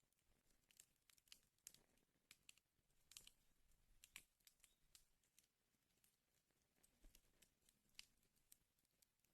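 Faint crackling of burning firewood: irregular sharp pops and snaps over a soft hiss, with a cluster of louder pops about two to four seconds in.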